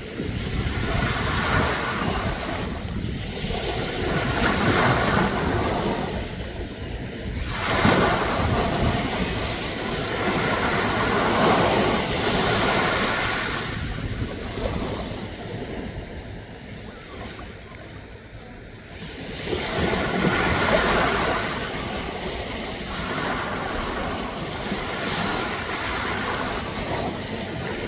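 Sea waves and wind: a steady rushing noise that swells and eases every few seconds, with wind on the microphone.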